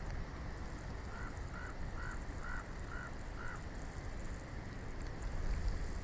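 A bird gives six short, harsh calls in an even series, about two a second, over a steady background hiss.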